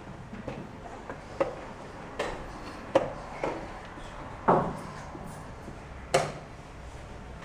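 About six sharp, irregular wooden knocks and clacks: chess pieces set down on the board and the chess clock's button pressed as moves are played in a fast rapid game. The loudest knocks come about three and four and a half seconds in.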